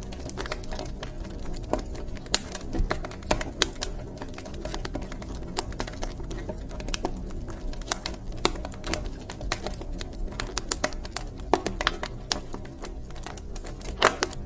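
Wood fire crackling: irregular sharp pops and snaps, a few louder ones, over a steady low rumble of the flames.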